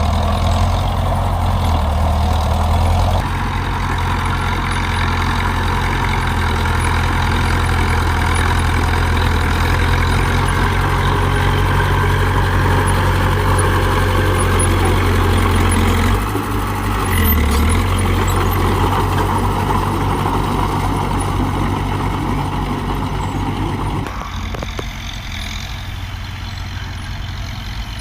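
Heavy diesel engines of earthmoving machinery running steadily, with a strong low drone; the sound shifts abruptly a few times, about 3, 16 and 24 seconds in.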